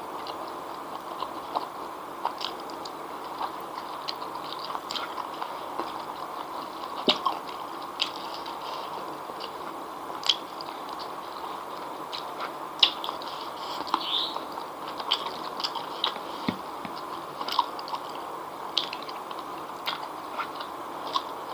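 Close-up chewing and mouth sounds of a person eating fried noodles and spicy chicken feet by hand: irregular sharp clicks and smacks over a steady background hiss.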